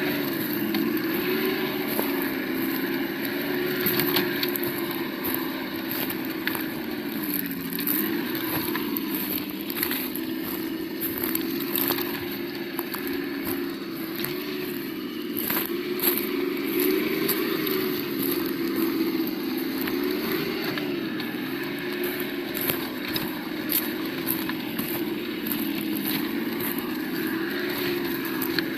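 Sound module of an Absima Yucatan 1:8 RC crawler playing a simulated engine at low revs, its pitch wavering gently up and down, with frequent clicks and crackles over it.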